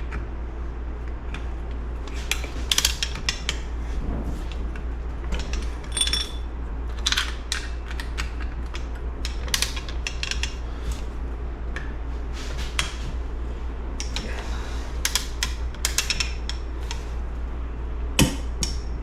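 Metal tools and parts clinking and clicking against a Honda CR125 engine's primary gear and clutch side as its primary gear nut is torqued, over a steady low hum.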